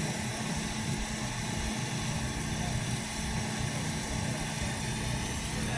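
An engine running steadily, with a low, even hum.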